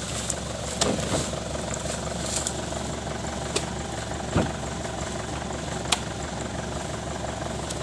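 Daihatsu Taft Hiline's diesel engine idling steadily, with a few sharp knocks scattered through.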